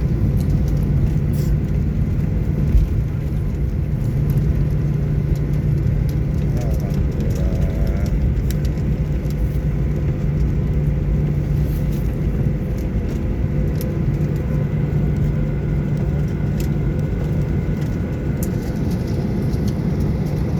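Airliner cabin noise just after landing: a steady low rumble of engines and airflow heard from inside the passenger cabin.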